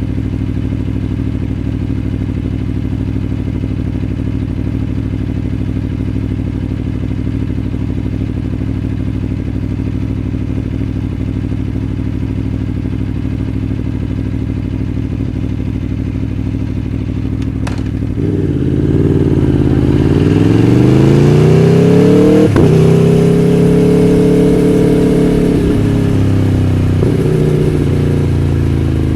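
Aprilia Tuono V4 1100 Factory's V4 engine idling steadily for about eighteen seconds. After a short click, the revs rise as the bike pulls away, hold for a few seconds, then ease off near the end.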